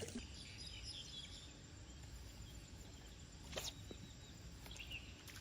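Quiet outdoor ambience by a stream, with a single faint click about three and a half seconds in.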